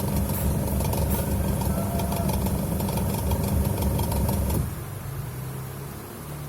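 Washing-machine electric motor, rebuilt and wired to a temporary test capacitor, running with no load and giving a loud, steady low hum. The sound drops sharply about four and a half seconds in, leaving a fainter hum.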